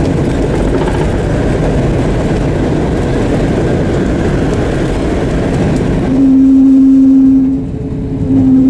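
Boeing 737-800 cabin roar of engines and airflow, steady and loud, cutting off suddenly about six seconds in. A single steady low hum follows, with a short break near the end.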